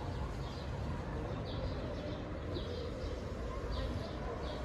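A small bird chirping repeatedly, short high chirps about once a second, over a steady low background rumble.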